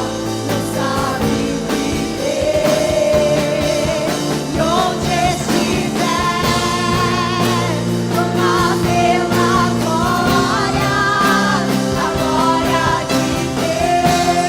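Worship song performed by a singer with a band: a sung melody with vibrato over sustained chords and a steady bass.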